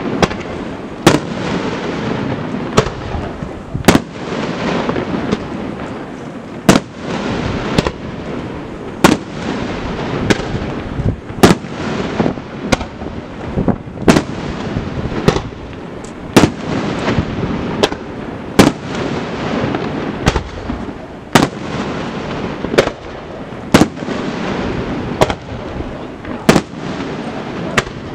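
Aerial firework shells bursting one after another, a sharp bang about every second, with a continuous rumble between the bangs.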